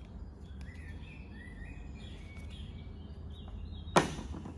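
Birds chirping in the background over a steady low hum, broken about four seconds in by a single sharp knock.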